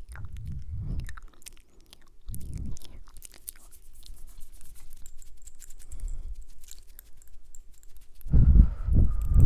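Close-miked wet mouth sounds: many small clicks and smacks of lips and tongue, with soft low thumps that get heavier near the end.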